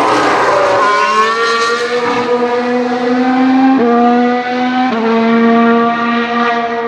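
Formula One cars' 1.6-litre turbo-hybrid V6 engines on track. One car passes at the start with a falling pitch, then a steady engine note holds, with sudden small jumps in pitch about four and five seconds in.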